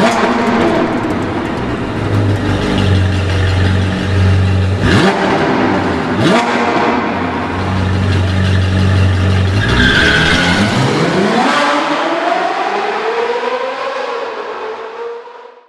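A car engine running and revving, its pitch rising sharply twice about five and six seconds in, then sweeping up again, before fading out near the end.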